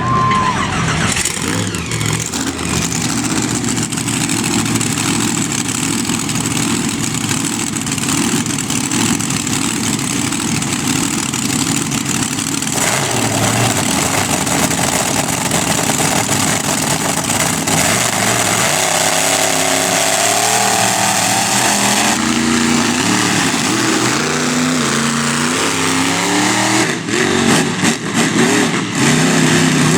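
Monster truck engine running loud, its revs rising and falling in steps through the second half.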